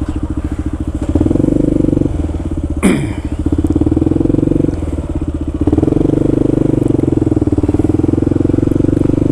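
Kawasaki KLR650's single-cylinder four-stroke engine running steadily under way, its revs picking up about a second in, easing off near the middle and picking up again. A brief sharp falling squeak sounds just before three seconds in.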